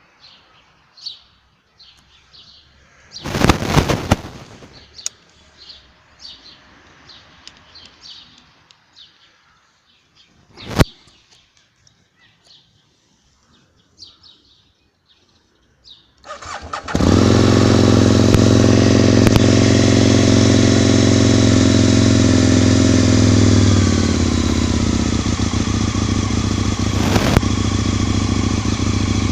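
Birds chirp in the quiet until the 2003 Aprilia Tuono's V-twin engine cranks and catches a little past halfway, then idles steadily, its pitch dropping slightly about seven seconds after it fires. This is a first start after two seasons laid up, with only the battery recharged.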